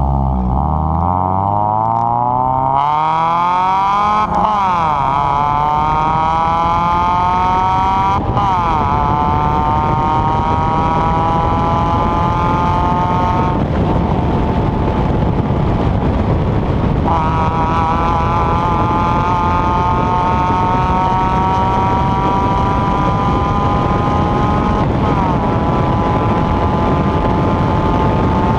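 A small 1.5-litre four-cylinder hatchback engine under hard acceleration, its pitch climbing steadily and dropping sharply at each gear change several times. Steady road and wind noise runs underneath.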